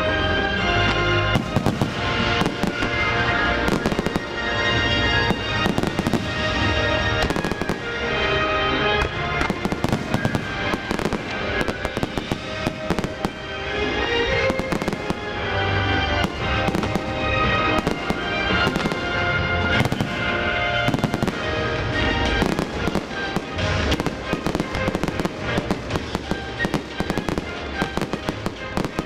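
Aerial fireworks shells bursting several times a second, mixed with the display's accompanying music.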